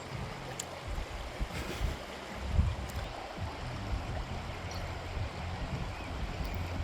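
River water flowing, a steady rushing, over an uneven low rumble.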